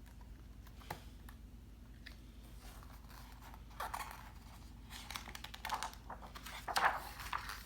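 Paper rustling and light clicks of a picture book being handled and its pages turned, sparse at first and busier in the second half, the loudest rustle near the end. A faint steady low hum runs underneath.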